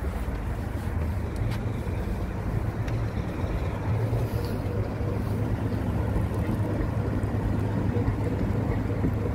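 Steady low rumble of a heritage railway train in motion, with a few faint clicks over it.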